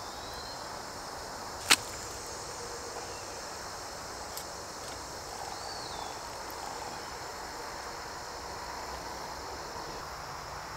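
Steady high-pitched outdoor insect chorus, broken by one sharp click about two seconds in and a smaller tick a few seconds later, with a faint short whistle near the middle.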